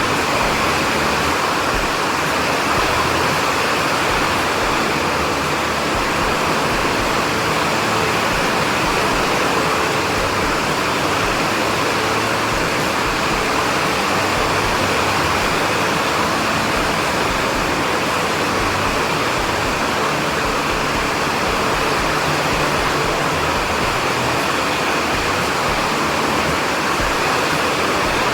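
Steady heavy rain, an even hiss of water with no thunderclaps.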